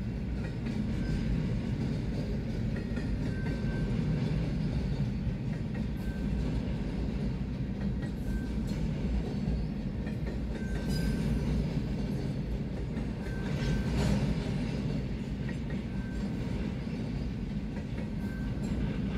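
Double-stack intermodal freight cars rolling past a grade crossing: a steady low rumble of steel wheels on the rails, with a few sharper clacks.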